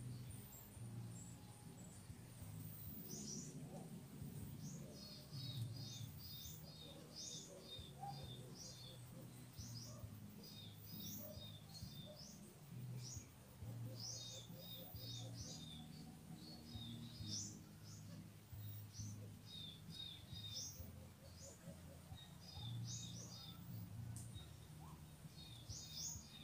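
Small birds chirping: quick runs of short, high chirps repeating every second or two, over a low steady background hum.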